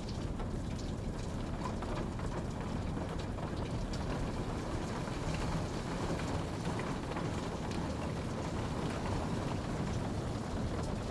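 Steady rain falling, a constant low rushing with many small drop ticks scattered through it.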